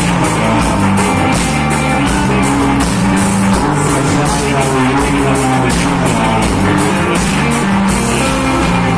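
Reggae band playing an instrumental passage, with bass, guitar and a steady drum beat.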